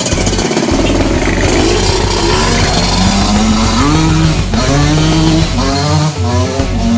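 Suzuki TS 125 single-cylinder two-stroke engine revving, its pitch rising and falling, with background music and a steady beat running underneath.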